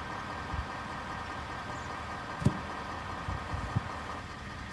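Truck engine idling steadily, with a couple of short knocks about halfway through and near the end.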